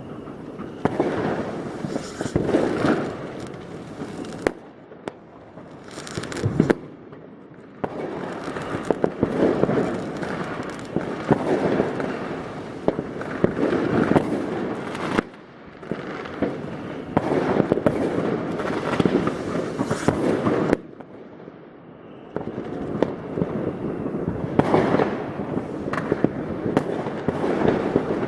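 New Year's Eve fireworks: a dense, continuous barrage of rocket and firecracker bangs and crackling, with brief lulls about five seconds in and again about twenty-one seconds in.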